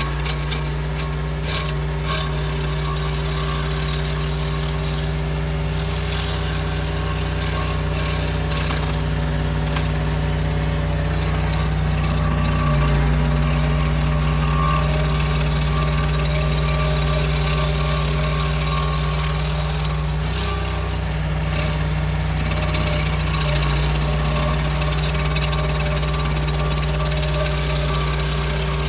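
Mini skid steer engine running steadily at working speed while driving a hydraulic stump grinder through an oak stump, with scattered ticks and crackles from the cutter wheel. The engine note shifts about midway and again later.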